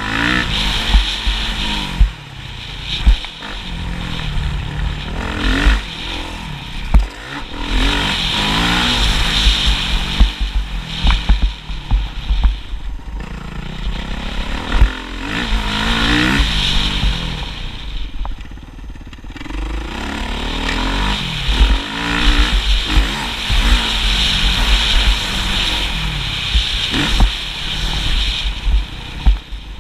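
Motocross motorcycle engine revving hard and dropping back again and again, rising in pitch through each burst of throttle and falling at each shift or lift-off, with frequent knocks and thumps throughout.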